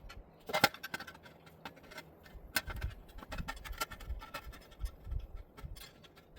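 Copper wire being reworked by hand: irregular small clicks and scraping, with a few sharper ticks.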